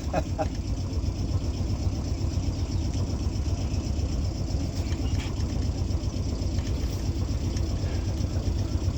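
Sailboat's engine running steadily at low speed, a continuous low rumble.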